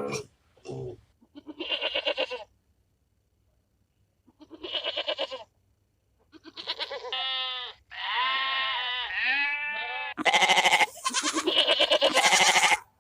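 Farm animals bleating: a run of separate quavering calls with short silent gaps, the loudest near the end.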